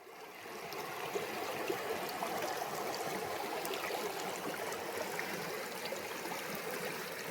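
River water flowing steadily, fading in over the first second.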